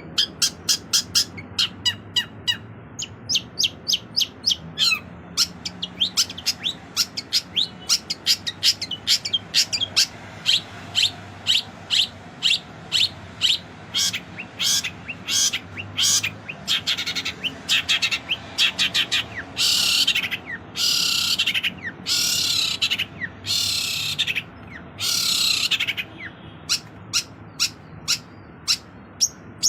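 Long-tailed shrike (cendet) singing a fast, varied song of sharp chirps and whistled notes, several a second. In the second half come a few harsh, rasping calls, each about a second long.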